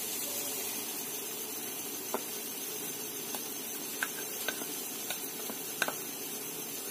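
Guava halwa sizzling softly in ghee in a kadhai, with half a dozen faint clicks scattered through.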